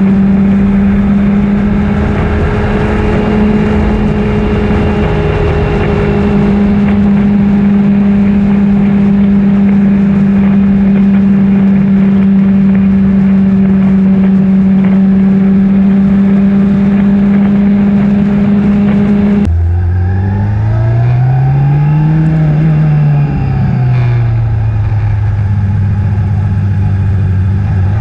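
2008 Honda CBR600RR's inline-four engine running under way at a steady pitch, with rushing wind noise. About two-thirds of the way in the pitch suddenly drops much lower, swells up and back down, then climbs again at the end.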